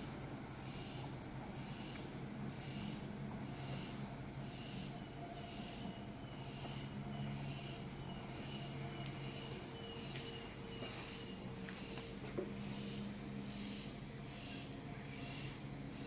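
An insect calling in evenly spaced, high-pitched pulses, about four every three seconds, over a low steady hum.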